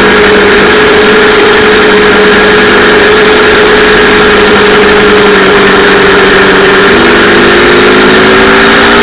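Yamaha R3's parallel-twin engine running at steady high revs under a dense hiss, its pitch dipping slightly twice in the second half and rising again near the end.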